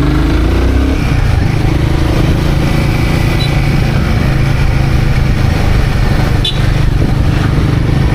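Royal Enfield Guerrilla 450's single-cylinder engine running while riding, its note rising in the first second and then holding steady. A single sharp click about six and a half seconds in.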